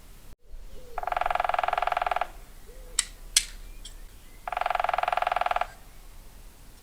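Woodpecker drumming: two rapid rolls of taps on wood, each about a second long, a few seconds apart, with two sharp knocks between them.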